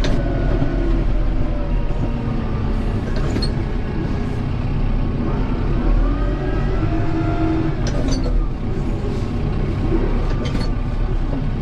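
Kubota M7060 tractor's diesel engine running under load, its pitch rising and falling as it works, with a few sharp clicks along the way.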